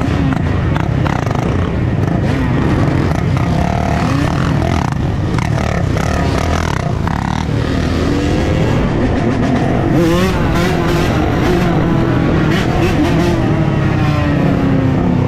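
Many dirt bike and ATV engines running together, revving up and down over a steady din. About ten seconds in, one engine revs up and its pitch then slowly falls away.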